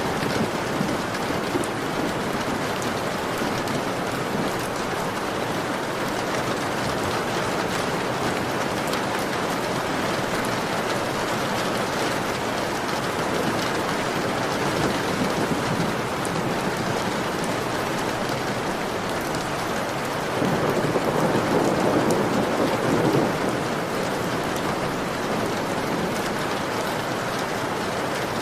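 Heavy rain pouring steadily against a window, a dense, even patter. It swells louder for about three seconds roughly two-thirds of the way through.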